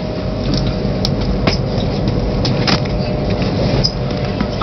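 Steady rumble of a high-speed train running, heard inside the passenger carriage, with a faint steady hum and a few light clicks.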